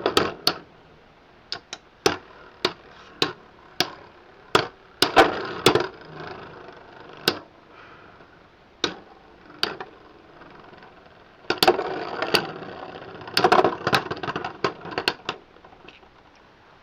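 Beyblade X tops spinning and clashing in a plastic stadium. A string of sharp, irregular clacks, with stretches of whirring scrape between them.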